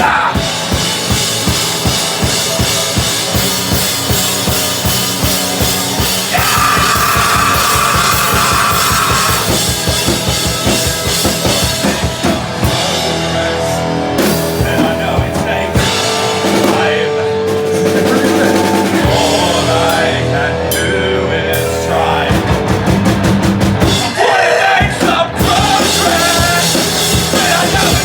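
Loud live rock band with a pounding drum kit. It plays fast, dense drumming, breaks into a stretch of held, ringing chords through the middle, then kicks back into fast drumming near the end.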